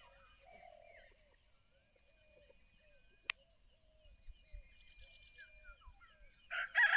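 Morning birdsong: several birds chirping and calling in short, falling whistled notes, with one sharp click about three seconds in and a much louder burst of sound starting near the end.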